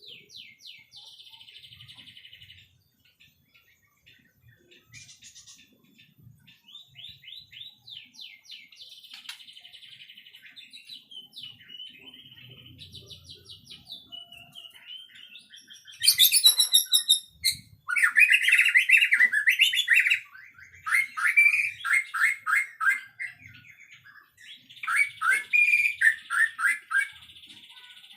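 White-rumped shama singing a varied song of rapid repeated notes and trills. It is fairly soft at first, then loud, fast bursts of notes begin a little past halfway.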